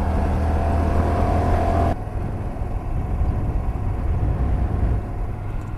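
A Honda Varadero 125's small V-twin engine running steadily as the motorcycle is ridden; about two seconds in the engine note drops and the sound becomes quieter.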